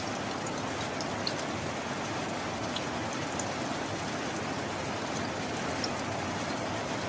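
Steady rain: an even wash of rainfall with scattered small drop ticks heard through it.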